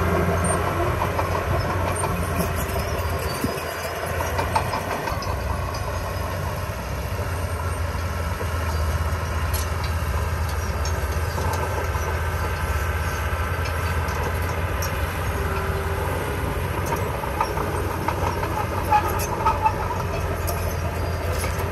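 Small crawler bulldozer's diesel engine running steadily under load, with the metallic clatter of its tracks and a few sharp clanks near the end.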